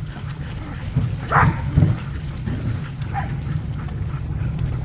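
Sled dog team running, with a steady low rumble of the rig moving along the trail and a single dog bark about a second and a half in.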